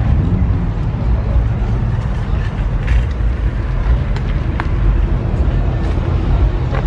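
A motor vehicle engine idling: a steady low rumble, with a few faint clicks over it.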